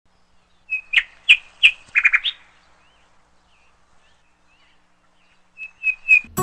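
Bird chirping: a quick run of short, sharp chirps in the first couple of seconds, a few faint ones, then three more near the end.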